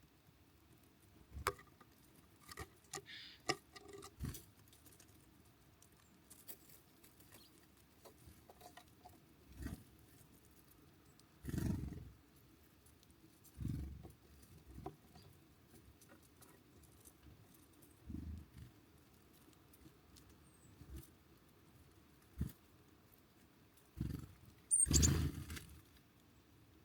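Small birds at a feeder close to the microphone: scattered taps and clicks of pecking and hopping, and short dull thumps and flutters as they land and take off. One brief high chirp comes near the end.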